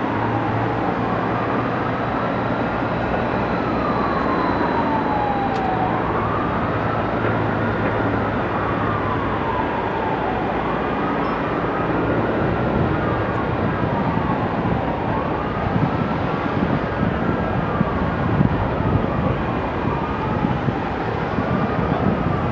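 Emergency vehicle siren in a slow wail, rising and falling about every five seconds, with a second siren overlapping it in the second half, over a steady rumble of background noise.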